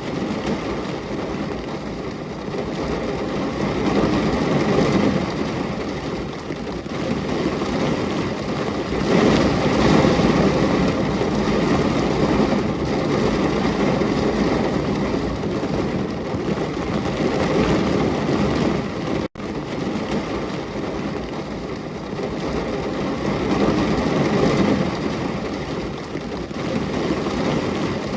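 Steady heavy rainfall, a dense rushing hiss that swells and eases every few seconds, broken by a split-second gap about nineteen seconds in.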